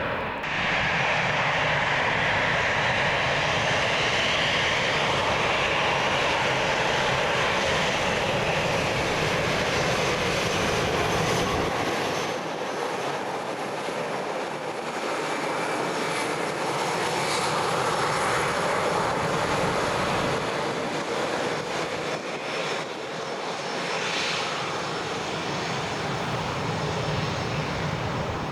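Jet airliner engines running loud and close, a steady jet roar with a whistling band in the upper mids that shifts during the first half. The low rumble thins out about halfway through, and the sound eases off near the end.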